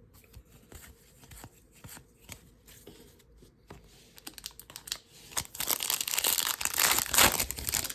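Trading cards being handled with faint light clicks, then about five seconds in a loud crinkling tear lasting a couple of seconds: a foil baseball card pack wrapper being ripped open.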